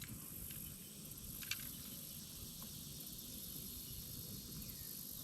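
A steady, high-pitched chorus of insects, with a low rumble beneath it and a single sharp click about a second and a half in.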